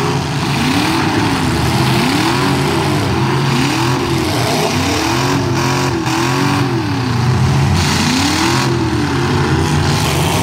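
Demolition derby truck engines revving up and dropping back again and again, about once a second, over the steady running of engines underneath.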